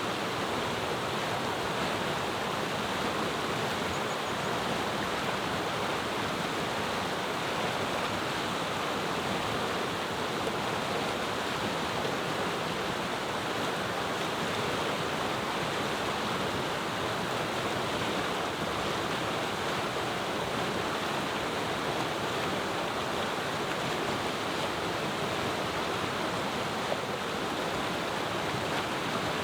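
Clear mountain river murmuring, a steady, even rush of flowing water.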